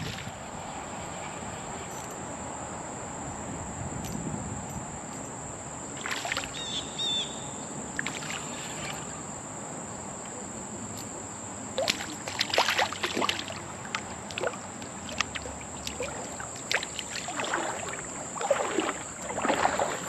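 Insects keep up a steady high-pitched drone. Several short noisy bursts break in over it, the loudest about twelve seconds in and again near the end.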